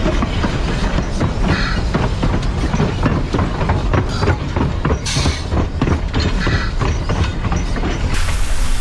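Steam train rolling along the track: a heavy low rumble with irregular clicks and clanks of the wheels over the rail. A loud steady hiss takes over near the end.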